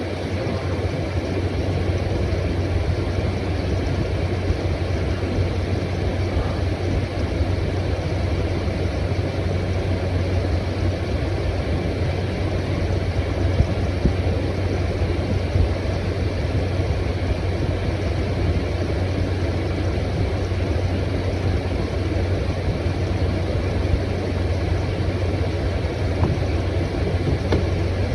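Window air conditioner running steadily: the fan blowing air with a constant low hum underneath.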